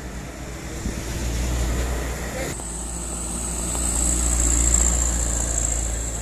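Truck engine running with a low steady drone that grows louder to a peak about five seconds in and then eases off, with a high hiss joining about halfway through.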